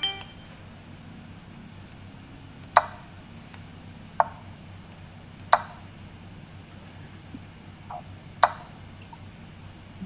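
Scattered sharp clicks, about seven in ten seconds at uneven intervals, over a faint steady low hum.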